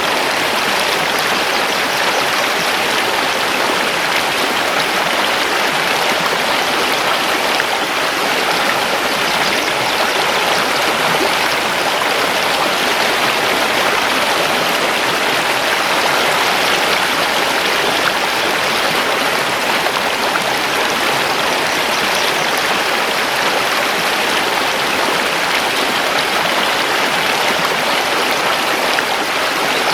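Mountain river flowing over stones: a steady, unbroken rush of water.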